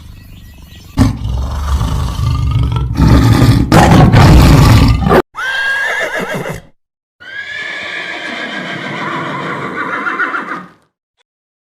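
Horse neighing in three separate pieces that start and stop abruptly, the last a long whinny. It goes silent about eleven seconds in.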